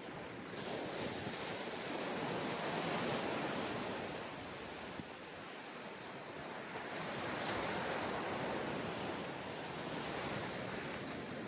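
Ocean waves breaking and washing on a sandy beach, a steady surf noise that swells twice, about a second in and again around seven to eight seconds in, with some wind on the microphone.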